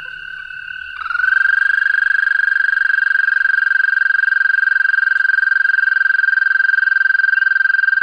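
Recorded frog call: a long, steady, high trill made of rapid pulses. A louder trill comes in about a second in, rising briefly in pitch at its start, and holds on over a fainter one.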